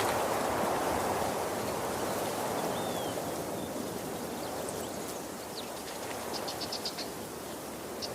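Steady rushing of a waterfall. A brief high chirp about three seconds in, and a quick high-pitched trill of evenly spaced pulses a little after six seconds.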